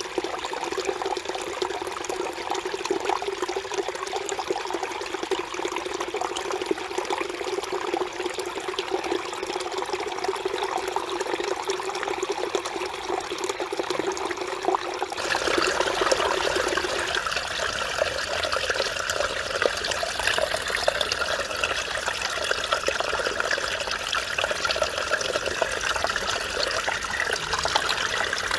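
Mountain stream water flowing and babbling over rocks. About halfway through, the sound changes suddenly to a brighter, slightly louder rush of water.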